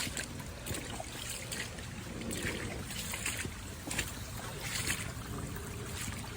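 Shallow creek water trickling and splashing over a freshly cleared channel, a steady rushing with irregular brief splashy spurts.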